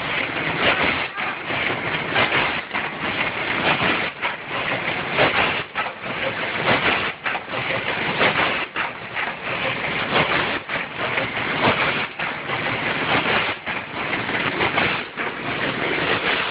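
Snack food packaging machine with multihead weigher running: a steady, dense clatter of many small rattles and knocks with no pause.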